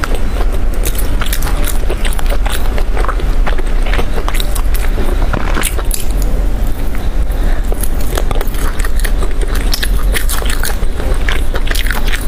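Close-miked biting and chewing of grilled skewered food: a dense run of crisp crunches and wet mouth clicks over a steady low hum.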